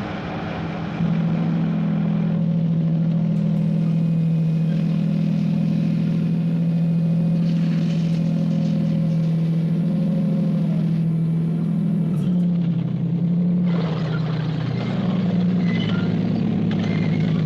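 Heavy construction vehicles' engines droning at a low, steady pitch, with a regular wavering throb about every second and a half. About two-thirds of the way through the pitch shifts, and a noisier rattle joins near the end.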